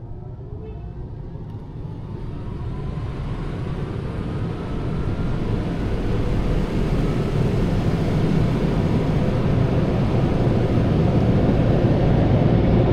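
Steady rushing noise heard from inside a truck cabin, growing steadily louder, with a faint rising whine in the first few seconds.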